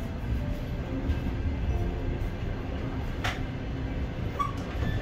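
Passenger train in motion: a steady low rumble, with one sharp click a little past halfway.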